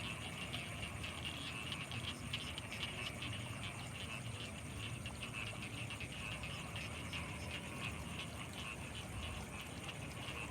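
A night chorus of frogs: many short calls overlapping in a steady, dense pattern. Underneath runs a thin, steady high-pitched tone and a low rumble.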